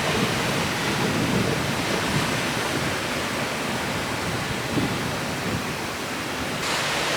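Steady rushing noise of wind and water on the open deck of a moving ship, with gusty low buffeting from wind on the microphone. The hiss grows brighter about six and a half seconds in.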